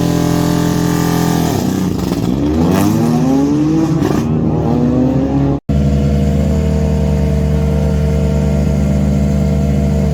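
World Rally Car's turbocharged four-cylinder engine holding high revs, dropping briefly, then climbing steadily as the car accelerates. About halfway through the sound cuts off abruptly and resumes as an engine held at steady, unchanging revs.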